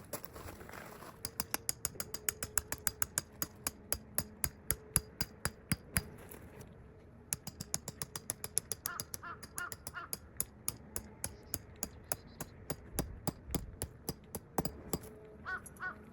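Crows cawing, a quick run of four caws about nine seconds in and another at the end, over a long series of sharp, rapid clicks at about four to five a second that pause briefly near the middle.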